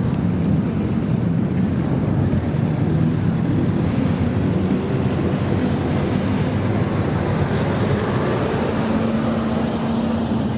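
Engine of a customised kaido-racer classic car running loudly and steadily through its exhaust, its pitch wavering slightly and settling to a steadier note near the end.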